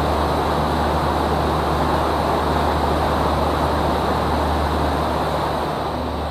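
River sightseeing boat's engine running with a steady low drone under a constant rushing noise, easing slightly near the end.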